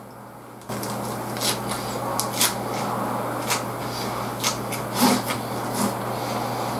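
Close-up chewing of a lettuce wrap filled with grilled beef and bitter melon: wet munching with several sharp crunches of the crisp lettuce. A steady hiss comes in about a second in and runs under the chewing.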